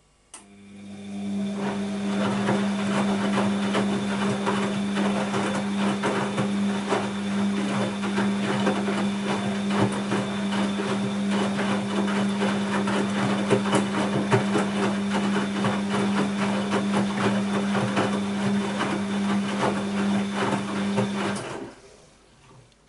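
Bosch WAB28220 washing machine's drain pump switching on with a click and running with a steady hum and a rapid crackling rattle of water and air, then cutting off abruptly near the end.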